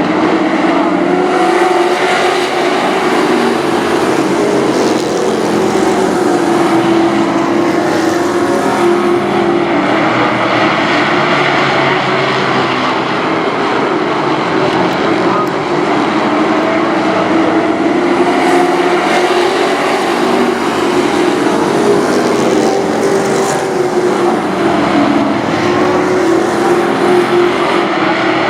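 A pack of race trucks running laps on a short oval, their engines droning together with the pitch slowly rising and falling as they go around.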